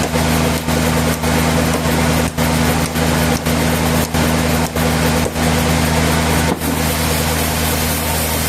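Sawmill machinery running steadily: a low, even hum under loud noise, with brief regular dips about twice a second that stop about six and a half seconds in.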